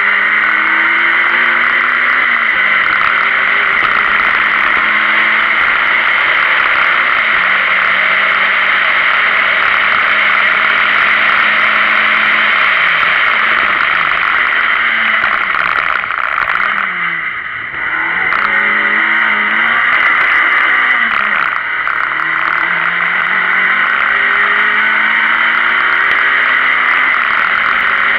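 Renault Clio Sport rally car's engine driven hard, revs climbing through the gears and dropping at each shift, over a steady rush of wind and road noise. About two-thirds of the way through, the revs fall away briefly as the driver lifts and shifts down, then pick up again.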